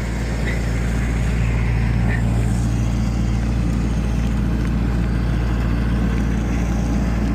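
15 kW diesel generator running steadily with a constant low engine hum, under a light electrical load.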